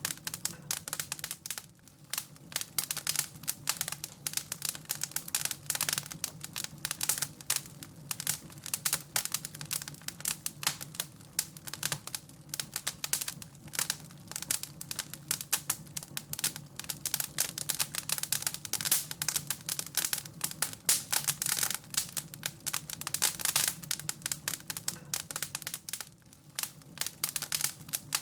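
Wood fire crackling in a fireplace: dense, irregular pops and snaps, over a steady low hum.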